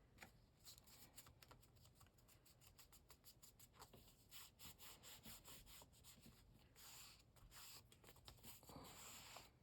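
Near silence, with faint rubbing and light ticks of paper being handled and pressed down by hand.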